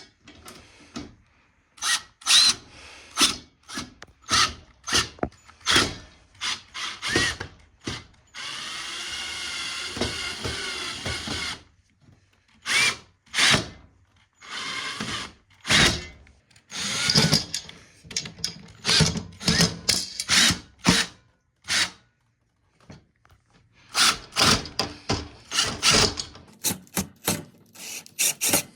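Power drill run gently in many short trigger bursts, likely driving screws during assembly of the window air conditioner. About a third of the way in, it runs steadily for roughly three seconds, then returns to short bursts.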